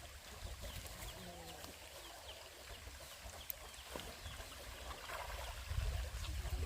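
Short, repeated bird chirps, faint, with a low rumble rising near the end.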